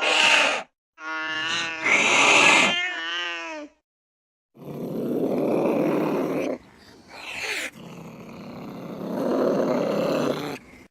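Angry cats yowling and growling. A long wavering yowl comes first, then, after a cut, two long harsh raspy spells of threat growling.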